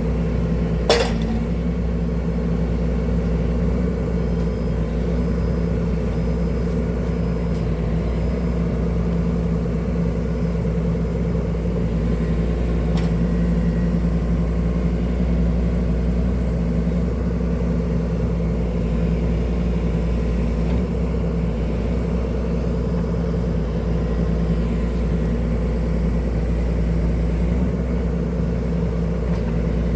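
Excavator's diesel engine running steadily with a deep rumble, with a single sharp click about a second in.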